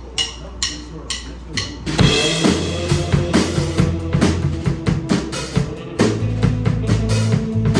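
A live rock band starting a song: a steady count-in of sharp clicks, about two a second, then about two seconds in the whole band comes in on the beat, with drum kit kick and snare hits over held low bass notes.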